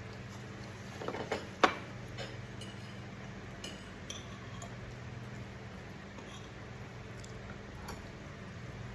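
Cutlery clinking against dishes during a meal: a few sharp clinks about a second and a half in, the loudest near the end of that cluster, then scattered light taps, over a steady low hum.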